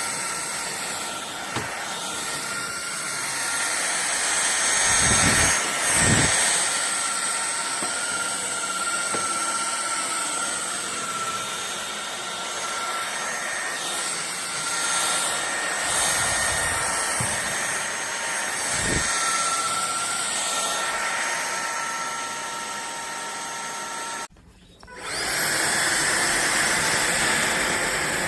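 Fieety cordless stick vacuum running steadily with a constant whine. Near the end it cuts out for under a second, then spins back up with a rising whine.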